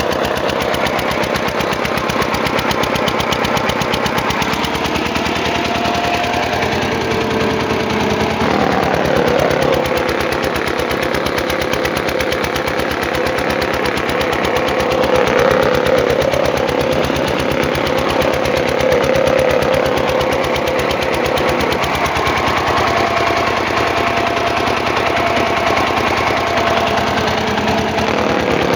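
Kirloskar generator engine running steadily during a load test, with a fast, even knocking beat and a humming tone over it that shifts pitch about a third of the way in and again near the end.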